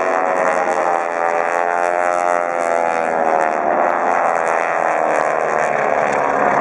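North American T-6 Texans' radial engines and propellers droning as the formation flies past, the pitch sliding up and then down.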